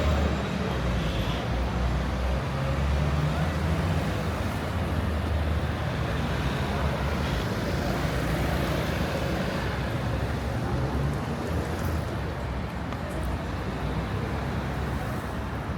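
Street traffic: a steady rumble of engines and tyres from passing vehicles, heaviest near the start.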